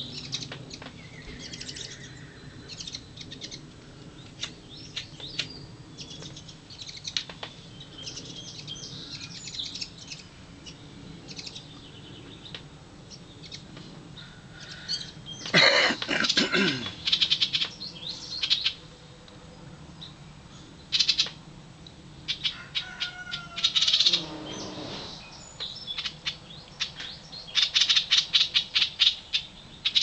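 Birds chirping, with several loud bouts of rapid, high chirping in the second half, heaviest near the end. About two-thirds of the way through there is also a lower, falling sound.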